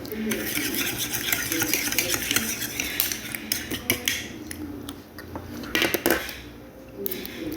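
Utensils scraping and clinking against a dish, with a dense run of scraping in the first half and a few separate sharp clinks later, the loudest pair near the end.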